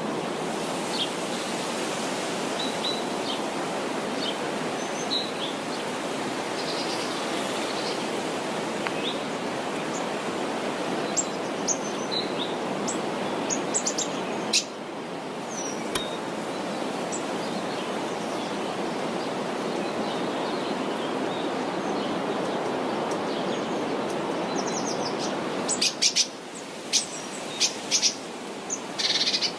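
Birds chirping and calling over a steady rushing background noise, with a quick run of louder, sharp chirps near the end.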